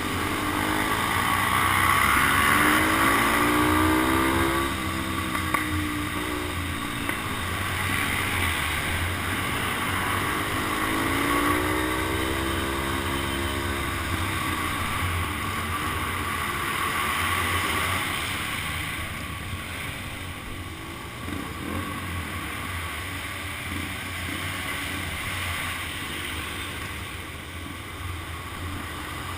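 Motorcycle engine heard from a helmet camera, revving up and easing off twice in the first half, with wind rushing over the microphone throughout.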